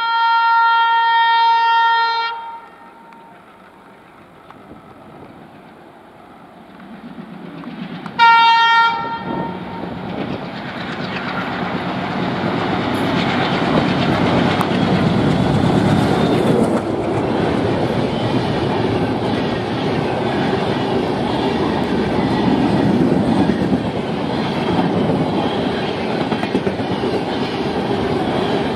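Diesel locomotive of the Humsafar Express passing at full speed. Its horn sounds for the first two seconds, then the train's noise grows as it approaches, and a short horn blast about eight seconds in is the loudest moment. After that the locomotive and coaches go by with a steady din and the clickety-clack of wheels over rail joints.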